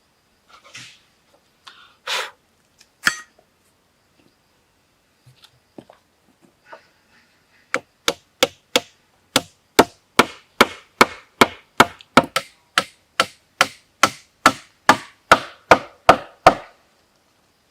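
A few scattered knocks and rustles, then from about eight seconds in a fast, even run of sharp chopping strikes on wood, about two or three a second, stopping shortly before the end.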